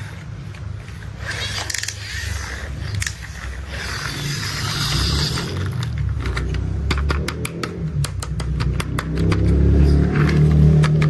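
Toy construction vehicles being handled: clicks and a scraping stretch, then a quick run of sharp clicks, over a low rumble that grows louder toward the end.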